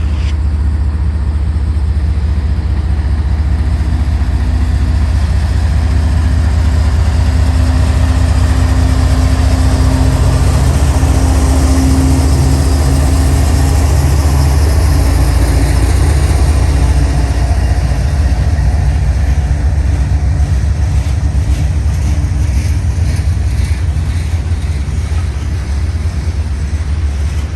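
Diesel locomotives of a CSX coal train running by, a heavy, steady low engine rumble that grows to its loudest about halfway through, then eases a little.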